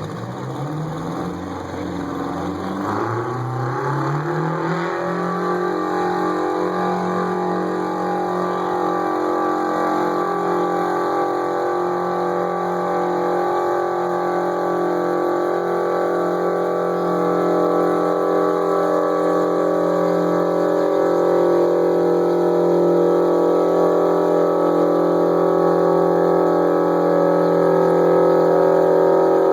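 Pulling-tractor engine revving up over the first few seconds, then held at steady high revs under load, growing slowly louder.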